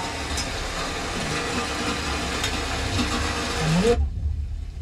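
Heavy monsoon rain falling, a steady hiss that cuts off abruptly about four seconds in, leaving only a low rumble.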